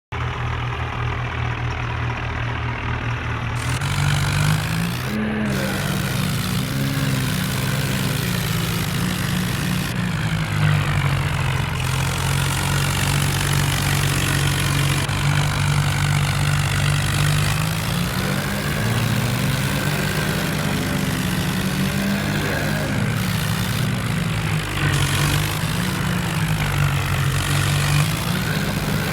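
Tractor diesel engines running hard under load, the pitch rising and falling several times as the throttle is worked, typical of tractors straining against each other in a tug-of-war. A little under four seconds in, the sound turns brighter and fuller.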